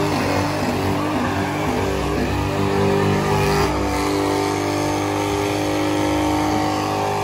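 Car engine held at high revs, a steady pitched drone that shifts slightly about halfway through.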